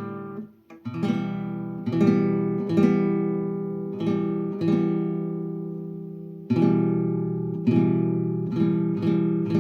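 Acoustic guitar strumming chords with no singing, each chord struck about once a second and left to fade. A short break comes about half a second in, and a little past the middle one chord is left ringing for about two seconds before the strumming starts again.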